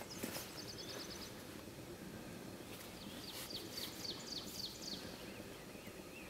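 A small bird singing two brief trills of rapid, high repeated notes, the second series of notes each dropping in pitch, over faint outdoor background noise.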